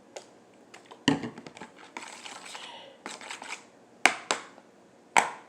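Hard objects knocking against a container while slime ingredients are handled and mixed: four sharp knocks with smaller clicks and light rustling between.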